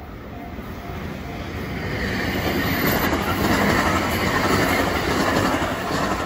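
A 521 series electric train running past on the track. The sound builds over the first three seconds, is loudest for the next few, then eases as the train draws away.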